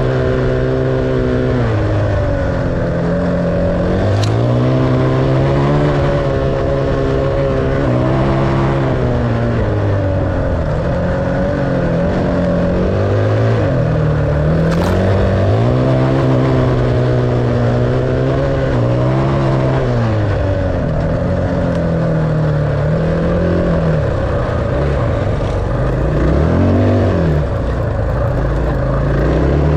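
Enduro dirt bike engine under way, its pitch repeatedly rising, holding and dropping as the throttle is worked. Two brief sharp clicks, at about four seconds and about fifteen seconds in.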